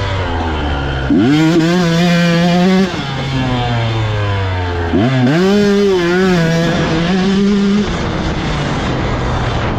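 Dirt bike engine under throttle. It revs up sharply about a second in and holds high, then drops back. It revs up again about five seconds in and eases off near eight seconds.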